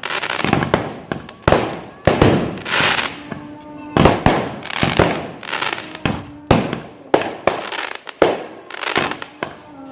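Fireworks going off in quick succession: about a dozen sharp bangs at uneven intervals, each trailing off into crackling hiss.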